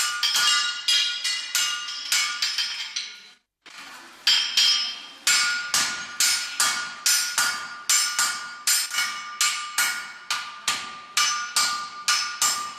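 Blacksmith's hammer striking iron on an anvil in a steady rhythm of about two to three blows a second, each blow ringing. There is a brief break about three and a half seconds in before the hammering resumes.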